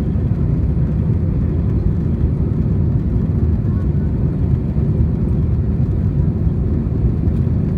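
Steady low cabin noise of an Airbus A320, its engines and airflow heard from inside the passenger cabin, holding an even level.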